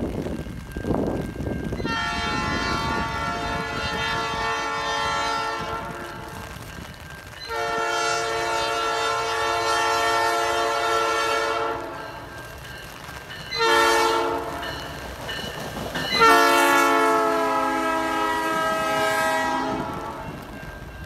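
Locomotive's multi-chime air horn sounding the grade-crossing signal: two long blasts, a short one and a final long one, the last sliding down in pitch as it begins. The rumble of the moving train runs underneath.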